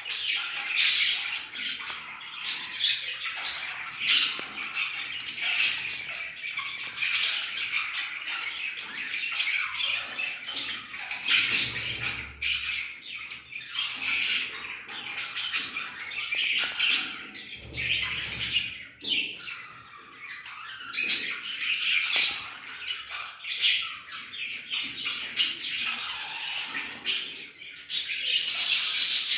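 Budgerigars chattering and chirping, with many rapid high calls and sharp squawks overlapping without pause.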